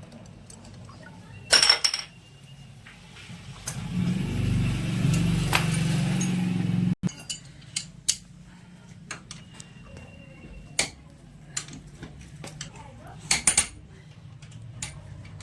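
Metal tools and engine parts clinking and tapping against each other as they are handled, with two loud metallic strikes near the start and two more near the end. A louder steady noise runs for about three seconds in the middle and cuts off suddenly.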